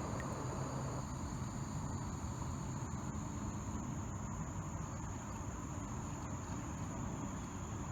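A steady, high-pitched chorus of insects such as crickets, over a low, even rushing noise.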